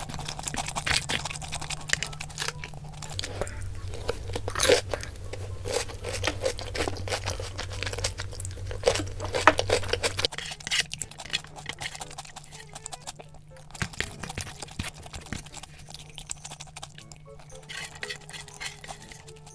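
Close-miked crunching and chewing of food, with dense crackly bites for about the first ten seconds, then sparser chewing.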